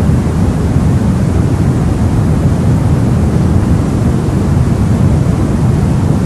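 Steady white-noise sleep sound: an even, deep rushing noise, strongest in the bass, that does not change.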